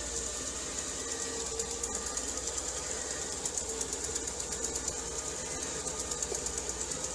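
Robot vacuum cleaner running: a steady motor whir with a high hiss and a fast, even ticking over it.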